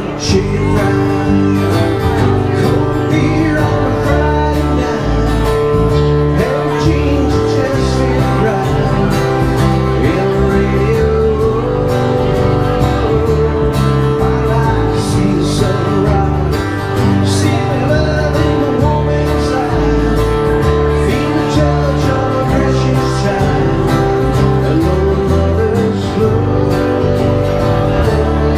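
Live country music from an acoustic duo, with acoustic guitar playing steadily throughout.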